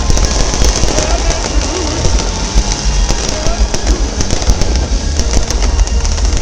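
Fireworks show: aerial shells bursting in quick succession, sharp cracks and crackle over a continuous deep rumble.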